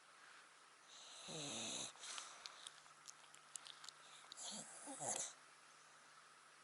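A sleeping dog snoring: two snores about four seconds apart, with faint small clicks between them.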